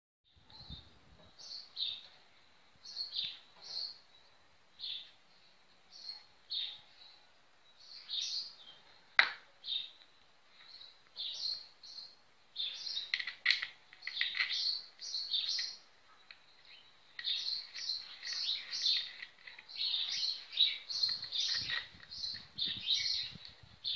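Small birds chirping, many short high calls in quick runs, busier in the second half. One sharp click about nine seconds in.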